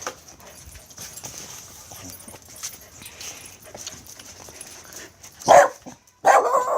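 Dog barking: a short loud bark about five and a half seconds in, then a longer bark near the end, after a stretch of faint rustling and small clicks.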